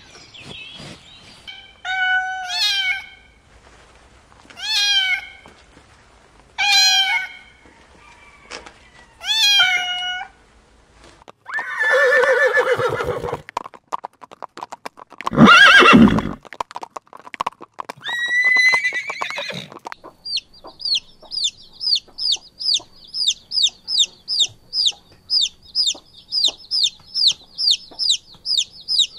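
A run of animal calls. First come four short pitched cries a couple of seconds apart, then three longer, louder and harsher calls. For the last nine seconds there is a fast train of high, short peeps, about two or three a second.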